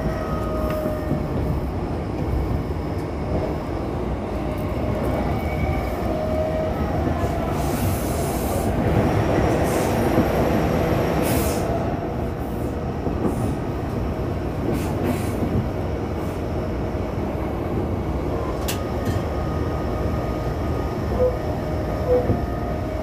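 Onboard running sound of a JR East E233 series 2000 subseries electric train under way: steady rumble of wheels on rail with a faint whine from the traction motors. The rushing noise swells louder for a few seconds near the middle, and two short knocks come near the end.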